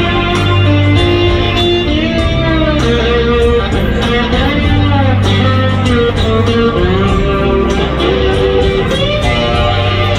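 A live rock band's instrumental break: a lead electric guitar plays sliding, bending notes over bass and drums with cymbal hits.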